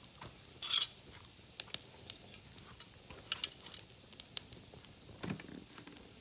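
Wood fire crackling, with scattered sharp pops and cracks at irregular intervals, one louder crack just under a second in, and a soft low thump about five seconds in.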